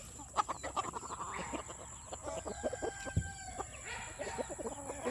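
A flock of chickens clucking and chattering, with many short calls overlapping.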